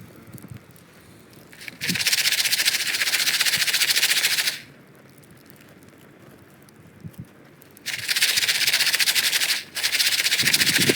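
Popcorn being shaken in a pan over a campfire, the kernels rattling hard against the pan in three bouts of a couple of seconds each, with short pauses between.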